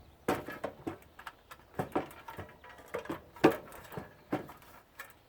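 Irregular clicks and light knocks of scrap wire and small metal parts being handled, about ten in all, the loudest about three and a half seconds in.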